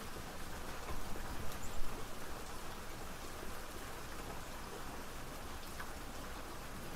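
Steady rain falling, with dense patter of raindrops on a surface and a few louder drops about a second or two in.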